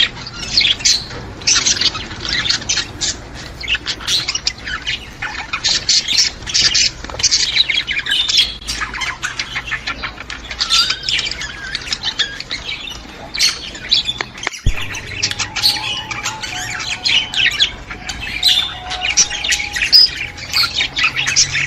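A flock of budgerigars chattering: many short chirps, warbles and squawks overlapping without pause.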